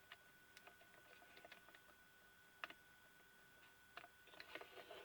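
Faint, scattered small clicks and ticks of plastic projector parts being handled and pried at while a stuck piece will not come free. The clearest click comes about two and a half seconds in, with a cluster of clicks near the end.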